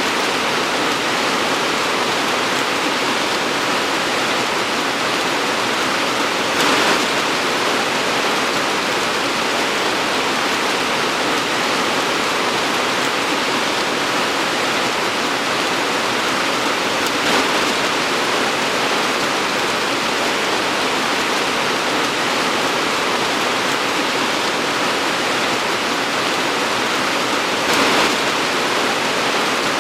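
Torrential rain pouring down in a steady, dense hiss, with three brief louder surges about ten seconds apart.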